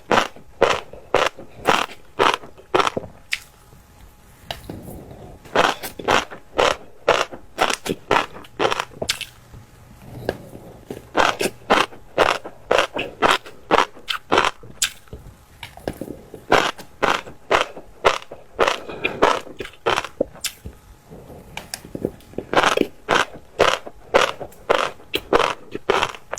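Crunchy chewing of fish roe, in runs of sharp crunches about three a second, with short pauses between the runs.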